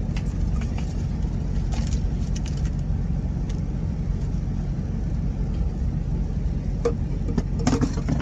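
Truck engine idling with a steady low rumble, with a few light clicks and taps over it, a small cluster near the end.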